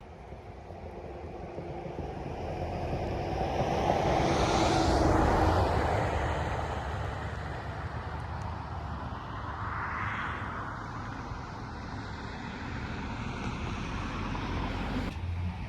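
A vehicle going past: a steady rumble that swells and fades, loudest about four to six seconds in, with a smaller swell near ten seconds.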